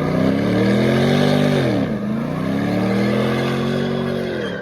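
Car engine revved hard twice: each time the pitch climbs and is held high, then drops sharply as the throttle comes off.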